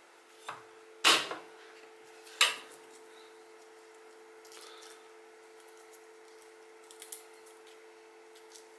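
Two sharp knocks of a chef's knife on a bamboo cutting board, about a second and a half apart, then the faint rustle of fingers peeling the papery skin off a garlic clove, with a quick double tick near the end.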